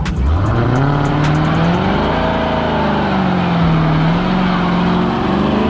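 A V8 muscle car's engine revving hard. Its pitch climbs steeply over the first two seconds, sags and holds, then rises again near the end, over a steady rushing noise.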